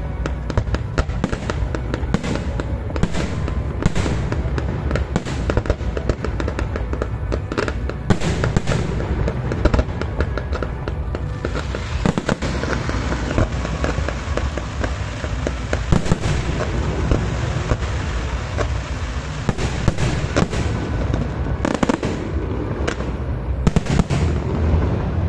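Fireworks display: a continuous barrage of bangs and pops, with a stretch of dense crackling in the middle.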